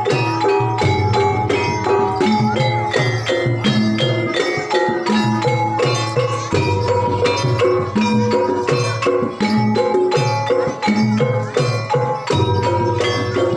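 Banyumasan gamelan music accompanying an ebeg horse dance: tuned mallet-struck instruments playing quick repeated notes in an even, driving rhythm.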